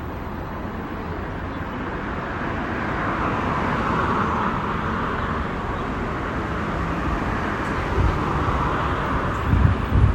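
Road noise that swells and fades like a vehicle passing, with wind gusting on the microphone near the end.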